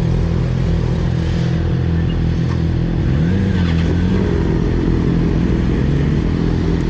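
Motorcycle engine running steadily, with a rev that rises about three seconds in and then levels off.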